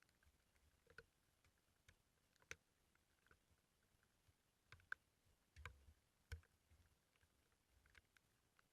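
Faint, scattered clicks and taps at irregular intervals, a few with a soft low thump.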